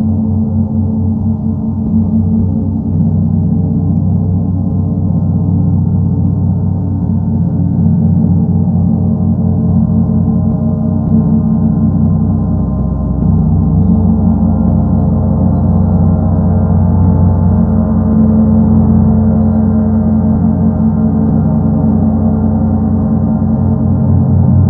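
Paiste Sedna planet gong being played continuously: a sustained, rumbling wash of many overlapping low tones that slowly shift and swell a little about halfway through.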